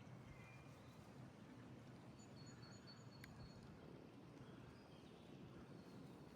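Near silence: faint outdoor ambience, with a few faint, short, high chirps a little past the middle.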